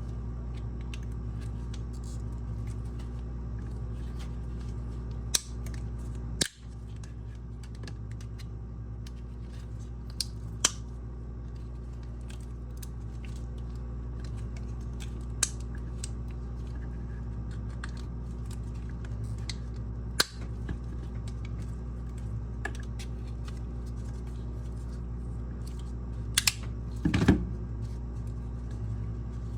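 Scattered sharp clicks and snips of small plastic parts being handled and cut, with a short burst of clicking and rattling near the end, over a steady low electrical hum.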